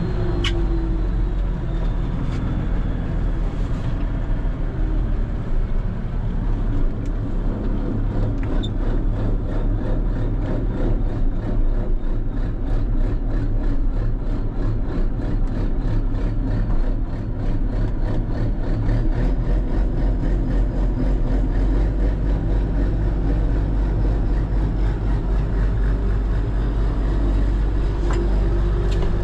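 Case 2670 four-wheel-drive tractor's diesel engine running steadily while pulling a disc chisel through the field. From about eight seconds in there is an even, rapid ticking over the engine sound.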